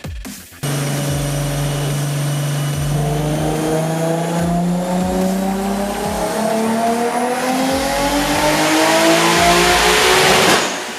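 Nissan Skyline GT-R R32's RB26 inline-six, fitted with a single Precision 6266 turbo, held at a steady note and then climbing steadily through the revs in one long full pull, typical of a chassis dyno run. The revs drop off sharply just before the end.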